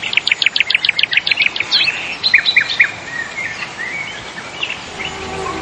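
Birds singing: a fast trill of short downward-sweeping notes, about nine a second, for the first second and a half, then scattered separate chirps. Soft music fades in near the end.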